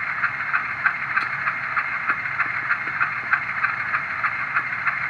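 Sound decoder in an HO-scale Bowser U25B model diesel locomotive playing the sound for function 20 through its small onboard speaker: a steady mechanical engine-like sound with sharp rhythmic pulses about four times a second.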